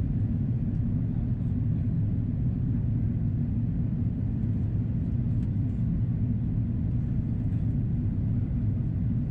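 Steady low rumble inside the cabin of an Airbus A330-300 in descent: the noise of its Rolls-Royce Trent 700 engines and the airflow over the fuselage, heard from a window seat.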